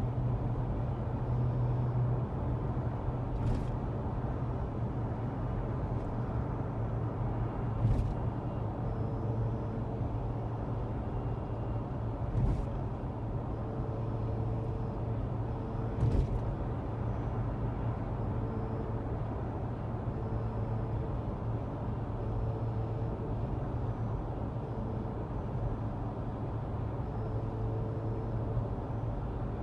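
Tesla Model S P85 electric car on the move: a steady low hum over road noise, with a few brief thumps and short faint tones recurring every second or two in the second half.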